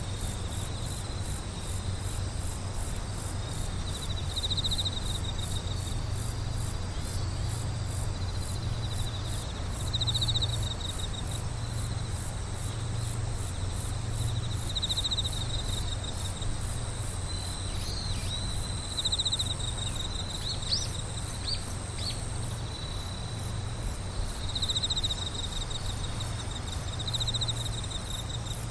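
Chorus of singing insects, crickets among them: one fast, even, very high pulsing that never stops, a steady high trill, and short trills from another insect that recur every few seconds. Underneath runs a low steady hum.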